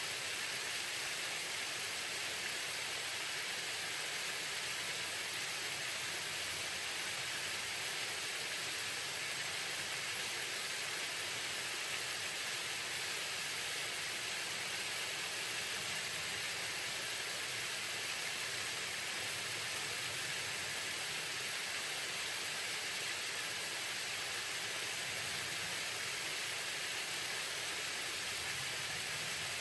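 Waterfall: water falling and splashing in a steady, unbroken rush that is brightest in the upper range and does not change.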